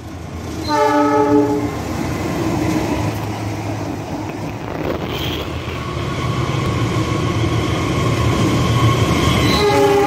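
An approaching diesel-hauled passenger train: the locomotive sounds a short horn blast about a second in, then its engine and wheels rumble, growing gradually louder as it nears, and a second horn blast starts near the end.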